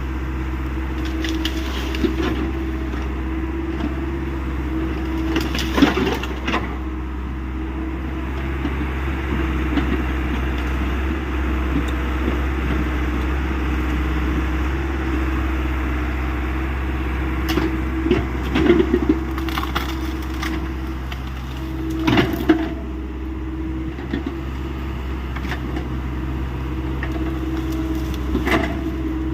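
Hyundai 85 excavator's diesel engine running steadily while the machine breaks up brush and wood, with sharp cracks and crunches several times: about 6 s in, around 18 to 19 s, at about 22 s and near the end.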